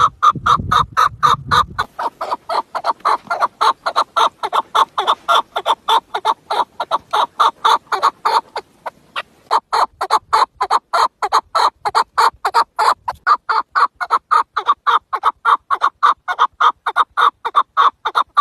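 Chukar partridge calling: a fast, steady run of clucking chuck notes, about five a second, with a short break about halfway through.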